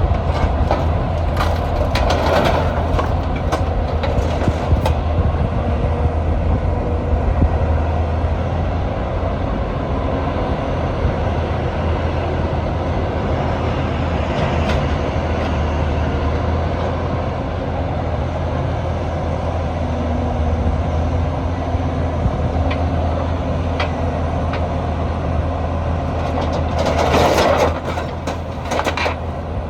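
Car driving, heard from inside the cabin: a steady low engine and road rumble with tyre noise, and a brief louder rush about two seconds in and again near the end.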